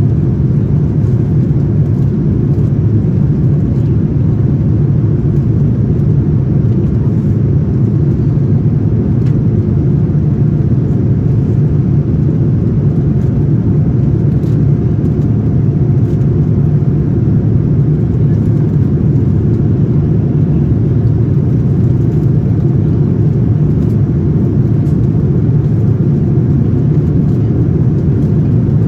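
Steady low roar inside the cabin of a Boeing 787-9 airliner in flight: engine and airflow noise holding level, without change.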